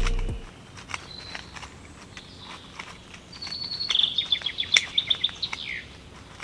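A bird calling: a rapid series of high chirps lasting about two seconds past the middle, ending with a falling note, over a quiet natural background with scattered light ticks.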